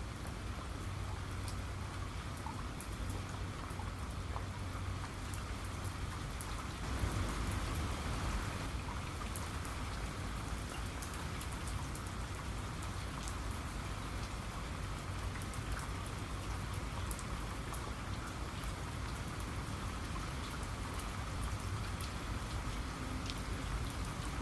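Steady rain falling on a surface, with many individual drops ticking through the hiss. It swells a little about seven seconds in.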